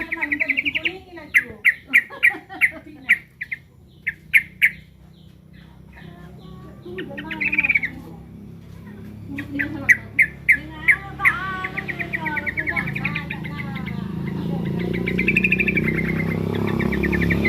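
Yellow-vented bulbul (trucukan) calling in runs of sharp, repeated chips and short rattling trills, its agitated calls while it feels threatened. A low hum grows louder under the calls in the second half.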